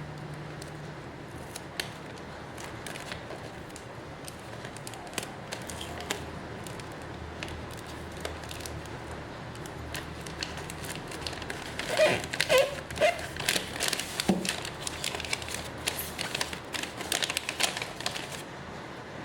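Parcels being packed by hand: plastic packaging crinkling and rustling with quick clicks and taps, busiest and loudest in the second half, over a steady hiss of rain.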